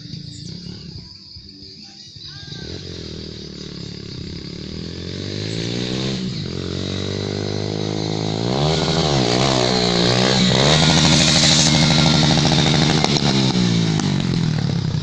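Motorcycle engine running, its pitch dipping and rising with the throttle several times. It grows steadily louder through the middle and eases a little near the end.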